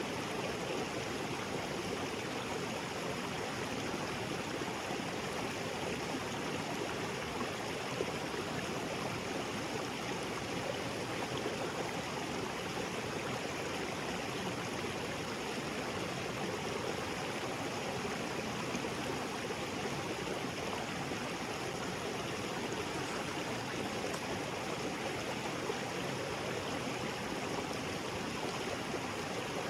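Small waterfall on a jungle creek: water splashing and rushing in a steady, even wash of noise.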